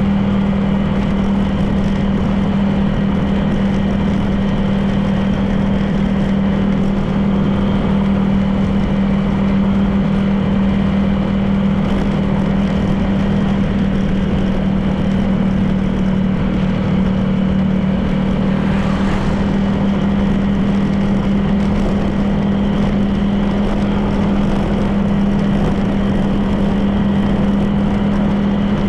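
Honda PCX 160 scooter's single-cylinder engine running steadily while riding, with road noise.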